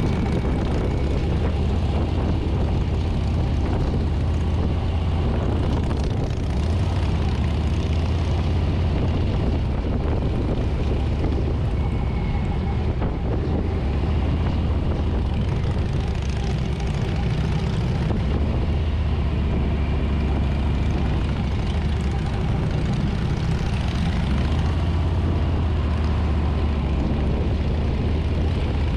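Harley-Davidson Street Bob's Milwaukee-Eight 114 V-twin running steadily on the road, a deep even drone, with wind rushing over the handlebar-mounted microphone.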